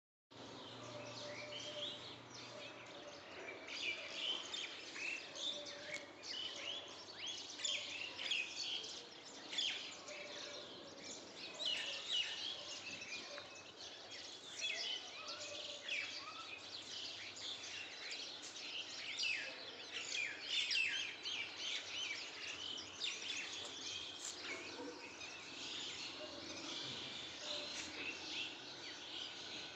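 Many small birds chirping and calling continuously, a dense overlapping chorus of quick high chirps over faint steady background noise.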